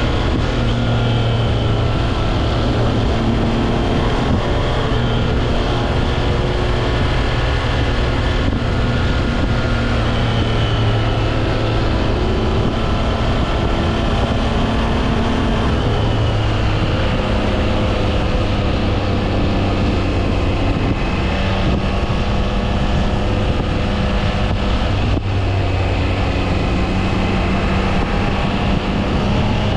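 Triumph Trident 660's inline three-cylinder engine running under way on the road, its note shifting up and down in pitch a few times as the throttle changes. Wind noise on the microphone runs under it.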